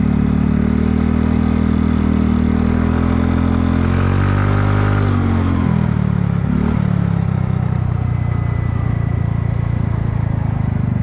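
Kymco People 250 scooter's single-cylinder engine and exhaust under way, its exhaust leaks freshly sealed with high-heat epoxy. The engine note rises a little, drops about halfway through as the throttle eases off, then runs on at a lower, steady pitch.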